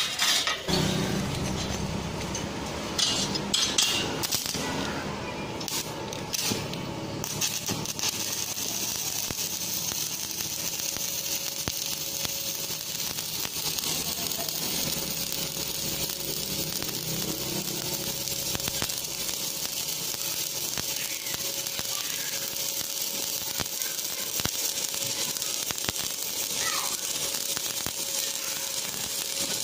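Metal pieces of a chainsaw guide bar clinking and being knocked into place. From about eight seconds in comes a steady crackling sizzle of arc welding on the bar.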